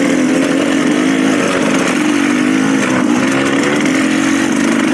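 Dirt bike engine running at a fairly steady speed, its pitch rising and falling slightly, with wind and trail noise around it.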